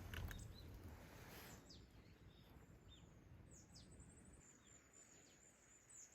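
Near silence outdoors, with faint high bird chirps several times and a soft knock at the start.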